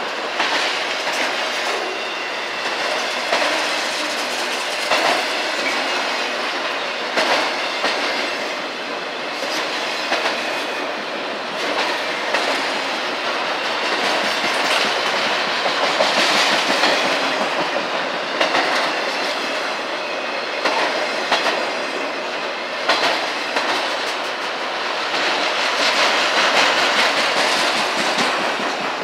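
A freight train of enclosed autorack cars rolling past: a steady rumble of wheels on rail with frequent, irregular clicks as the wheels cross the rail joints.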